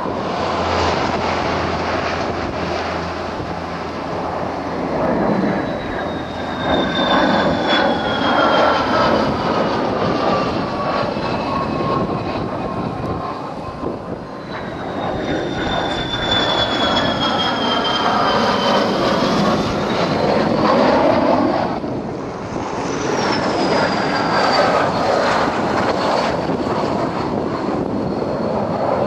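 Thunderbirds' F-16 Fighting Falcon jets passing one after another as they return to base to land. Each pass is a loud jet-engine rumble carrying a high whine that falls slowly in pitch as the jet goes by.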